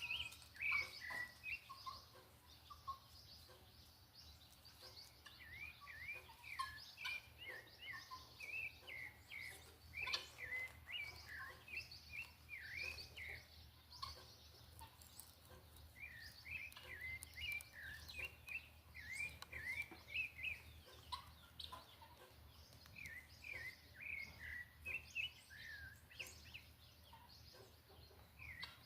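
Sabiá thrush singing: bouts of quick, slurred whistled notes broken by short pauses, over a faint steady low hum.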